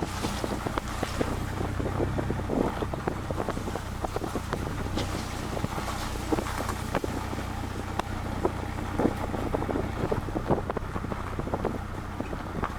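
Vehicle driving at speed: a steady low engine and road drone, with wind buffeting and crackling on the microphone throughout.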